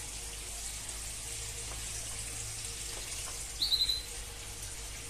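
A bird gives one short, high chirp about two-thirds of the way through, over a steady faint hiss and hum.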